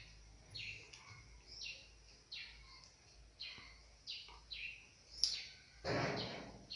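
A bird chirping in the background: short, high, downward-sliding chirps repeated at uneven intervals, with a louder, broad sound near the end.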